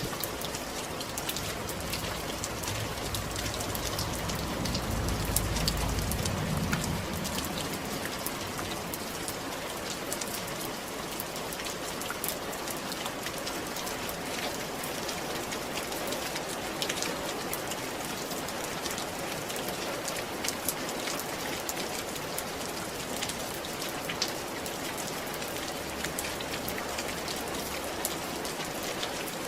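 Steady rain falling on a roof, a dense patter with many individual drops ticking. A low rumble swells and fades a few seconds in.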